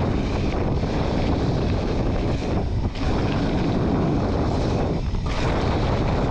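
Wind buffeting the camera microphone, loud and steady, with the rumble of a mountain bike rolling over the trail.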